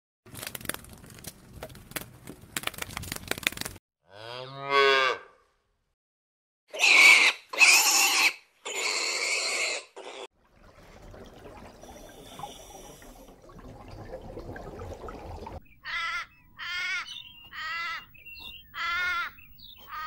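A run of different animal sounds edited one after another: crackly clicking at the start, one short low call that falls in pitch about four seconds in, and three loud harsh squeal-like cries between about seven and ten seconds. From about sixteen seconds comes a string of five short quavering calls, much like bleating.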